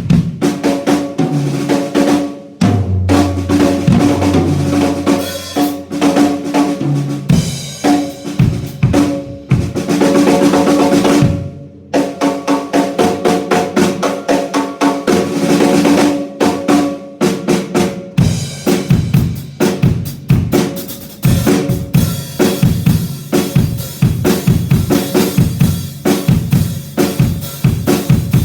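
Acoustic drum kit played through a Yamaha EAD10 drum module: snare, bass drum and toms in steady grooves and fills. The strokes come faster and denser in the second half.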